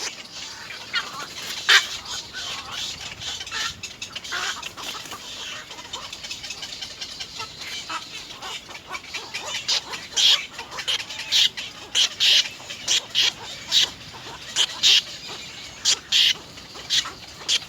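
Nestling birds calling to be fed: short, high, sharp calls, scattered at first, then coming louder and in quick runs of several a second about halfway through.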